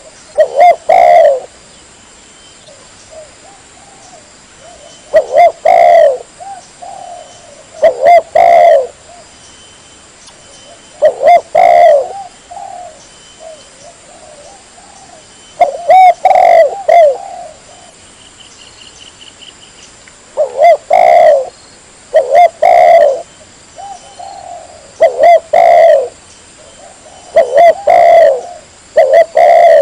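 Spotted dove cooing loudly: short phrases of two or three low coos, repeated about every three to five seconds.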